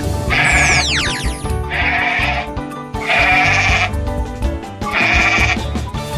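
A farm animal bleating four times, about a second and a half apart, over background music. A falling whistle effect sounds just after the first bleat begins.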